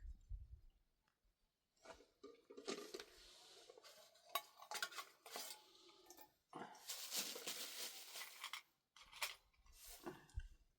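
Faint scraping and clinking of metal kitchenware, coming in several stretches with short pauses between them.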